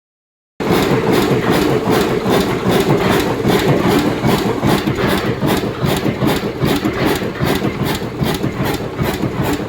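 Ruston Hornsby 7HR oil engine running steadily at a fast, even beat, driving an open-frame dynamo.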